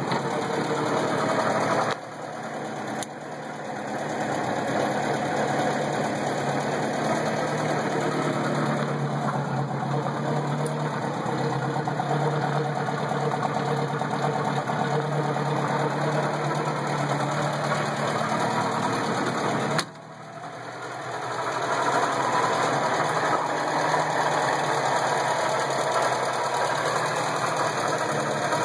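Moskvitch 402's side-valve four-cylinder engine idling steadily. The owner notes that the water pump is a little noisy and that the valve clearances still need adjusting.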